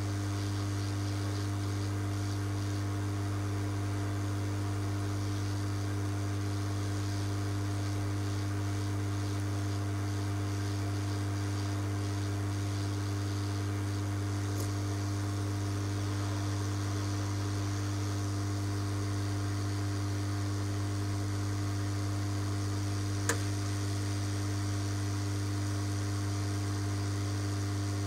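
Steady electrical mains hum, one unchanging low tone with higher overtones, broken only by a single small click near the end.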